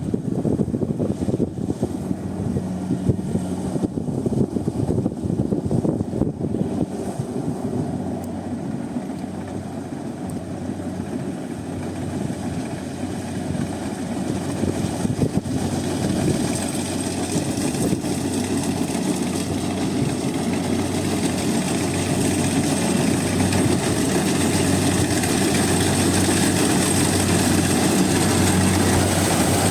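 Rice combine harvester running steadily, with rattling clatter in the first several seconds. It grows gradually louder through the second half as a high whine comes in over the engine hum.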